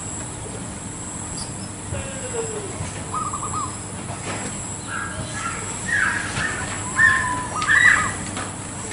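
Zebra dove cooing from a tree in short, rapidly trilled phrases. The calls grow louder in the second half.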